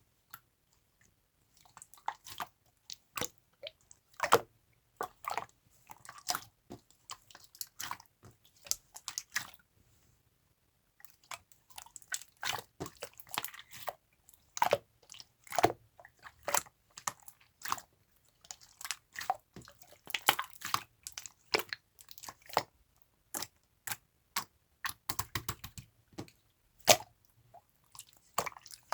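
Close-miked crunching and crackling in irregular quick clusters, with a second's pause about ten seconds in.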